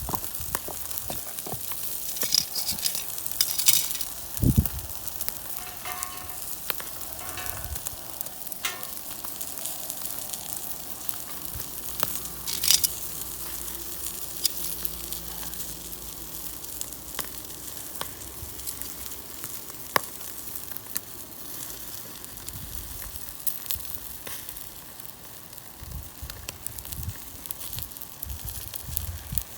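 Food sizzling on a grill over a wood fire: a steady hiss with sharp crackles and pops scattered throughout.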